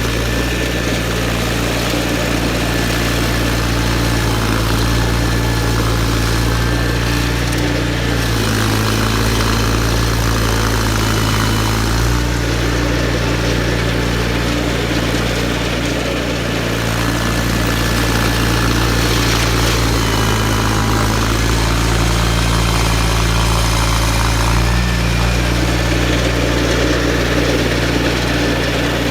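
John Deere 318 garden tractor's Onan two-cylinder engine running steadily with the Model 49 snowblower, its pitch shifting slightly a few times.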